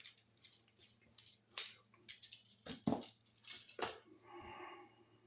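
Robertson screwdriver turning the terminal screws of a wall receptacle: a run of small, irregular metal clicks and scrapes, with a louder knock about three seconds in and a soft rustle near the end.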